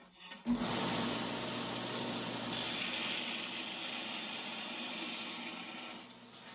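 Electric grinder starting up and running steadily while grinding a forged 5160 steel blade back to its marked lines. The hiss of the grinding grows brighter for a couple of seconds in the middle.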